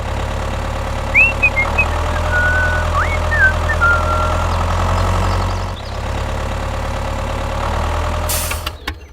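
Tractor engine running steadily, with a few short high chirps about a second in.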